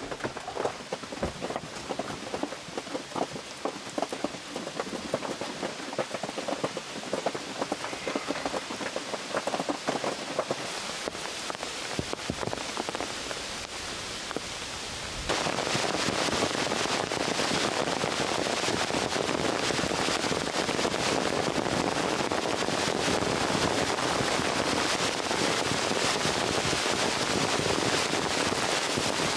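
Rain falling: first as scattered, separate heavy drops striking a hard surface, then about halfway it abruptly becomes a dense, steady downpour that is louder.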